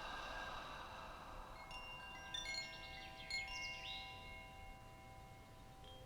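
Wind chimes ringing softly: several sustained tones, with a cluster of new strikes and a flurry of high notes about two seconds in, then slowly dying away.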